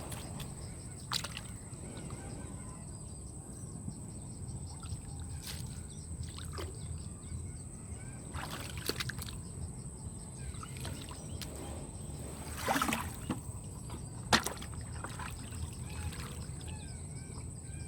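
Water sloshing and splashing in a shallow stream over a steady low rush, with a few sharper splashes or knocks scattered through. The strongest come about two-thirds of the way in. A thin steady high tone runs underneath.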